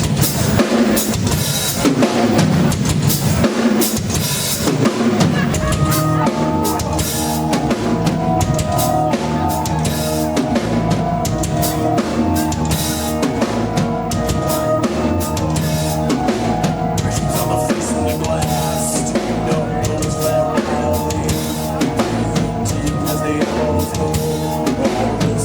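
Live rock band playing an instrumental passage: a drum kit throughout, with bass and keyboards. The first few seconds are mostly drums; held keyboard chords come in about six seconds in.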